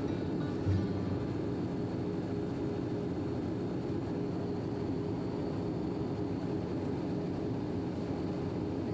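Steady cabin noise of a jet airliner in flight: an even, unchanging low rush of engines and airflow.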